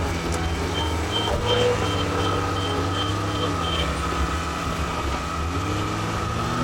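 John Deere 410 backhoe loader's diesel engine running steadily, with a pitched whine that slowly rises and falls. For the first few seconds there is a quick series of short, high beeps, about three a second.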